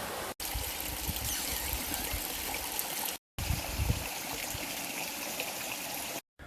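Steady rush of running water, cut into three short stretches by two brief dropouts, with a few low bumps underneath.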